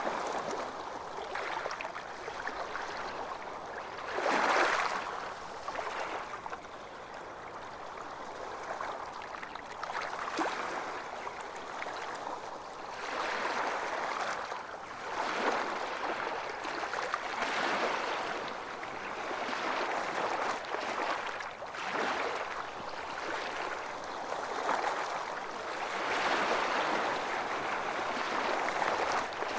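Waves washing onto a beach: a steady hiss of surf that swells and fades every few seconds, with the biggest swell about four seconds in.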